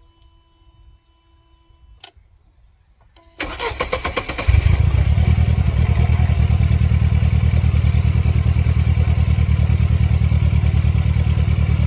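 A click, then the starter cranks the 1999 Mercedes-Benz C230 Kompressor's supercharged four-cylinder engine for about a second before it catches and settles into a steady idle. It starts readily with the throttle body electrically unplugged.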